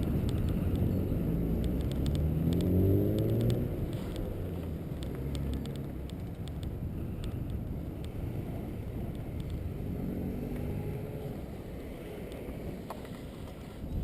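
A motor vehicle's engine rising in pitch as it speeds up, about two to three seconds in, over a steady low road rumble; a fainter engine note comes and goes later.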